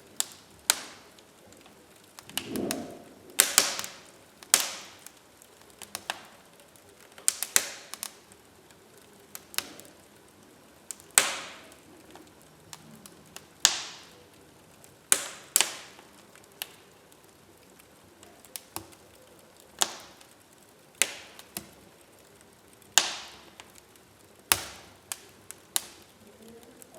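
Wood fire in a fireplace crackling: irregular sharp pops and snaps, some loud, over a low steady hiss.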